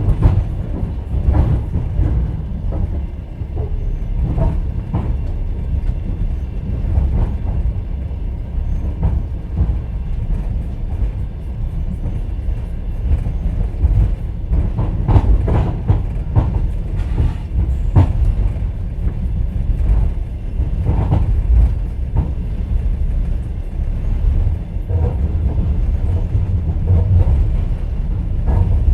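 Rumble of a moving passenger train heard from inside an open-plan sleeper carriage, with the clickety-clack of the wheels over rail joints and scattered knocks and rattles of the carriage.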